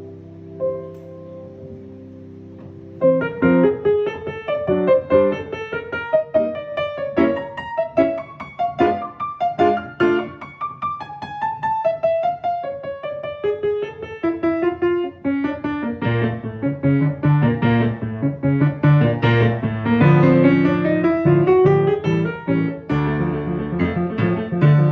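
Piano playing. A few soft held notes give way about three seconds in to a fast passage of quick running notes, with a rising run a little after the middle.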